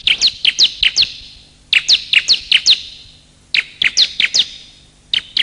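Bar-winged prinia (ciblek) calling in quick phrases of about six sharp, high, downward-sweeping chirps, the phrase repeated about every second and a half.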